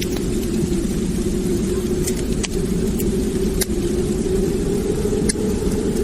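Wood fire burning in a fireplace: a steady low roar of flames with sharp crackles and pops at irregular moments, about half a dozen.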